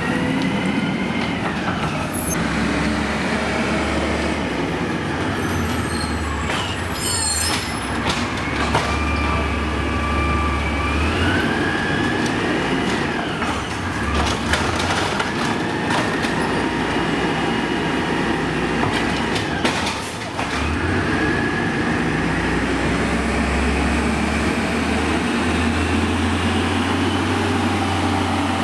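Amrep garbage truck running, its engine humming steadily under a high whine that rises and falls several times, with a few sharp metallic knocks along the way.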